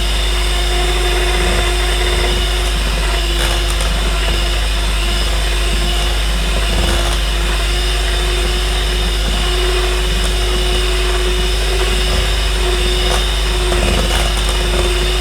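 Electric blender motor running steadily at one speed, blending lumpy pumpkin fritter batter into a smooth batter.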